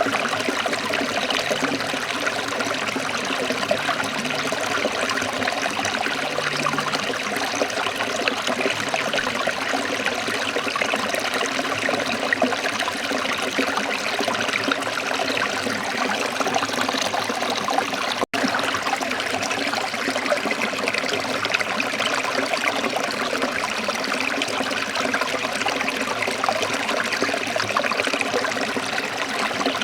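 Waterfall, water rushing and splashing steadily, with a split-second dropout about eighteen seconds in.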